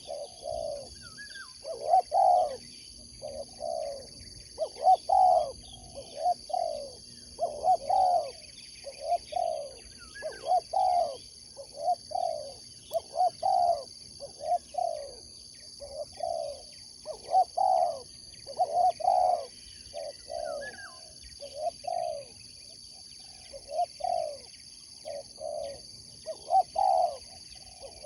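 Spotted dove (tekukur) cooing over and over, low coos repeated in quick phrases with short gaps between them. A few faint higher chirps from another bird come through now and then.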